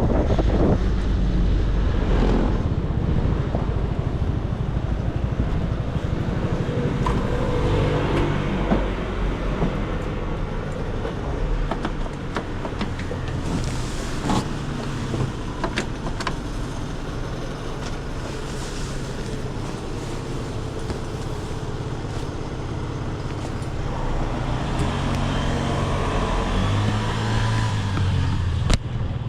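Motorcycle engine running on the move, with road and wind noise, the engine note shifting as the throttle changes.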